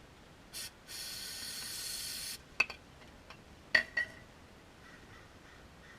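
Aerosol brake cleaner spraying in a short burst, then a steady hiss for about a second and a half, cleaning old gear oil off a differential drain plug. A few sharp metallic clinks follow.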